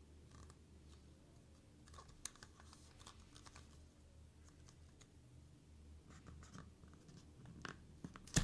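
Faint, scattered clicks, scratches and crinkles of hands handling small plastic toy pieces and packaging, with one louder knock near the end.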